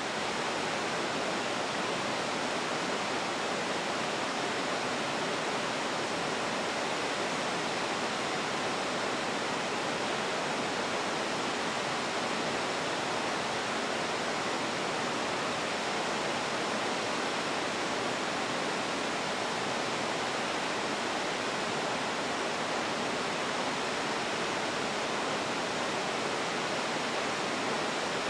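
Waterfall: the steady rush of falling water, an even hiss that holds level throughout.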